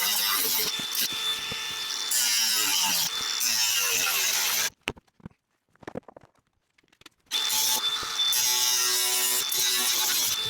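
Power tool working metal bodywork, loud and continuous with a steady high whine, stopping dead for a couple of seconds midway and then starting again.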